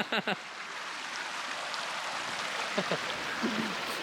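Steady rush of flowing beck water, an even hiss with no pauses. A voice cuts off right at the start, and faint voices come briefly about three seconds in.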